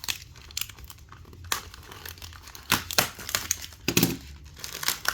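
Packaging crinkling and rustling in irregular crackles as a small wrapped model part is handled and unwrapped.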